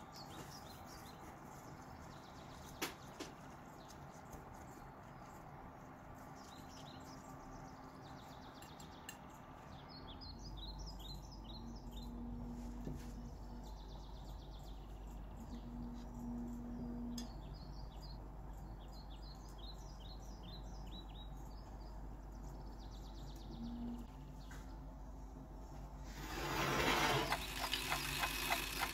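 Quiet background with birds chirping in short quick runs. A low steady hum comes in about a third of the way through, and a brief burst of rustling comes near the end.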